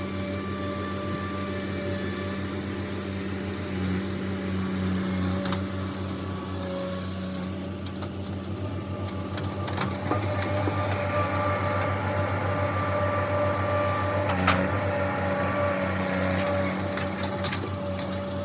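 Diesel farm machine engine running steadily with an even hum and a fast low pulsing, rising a little about halfway through, with a few sharp clicks and knocks over it.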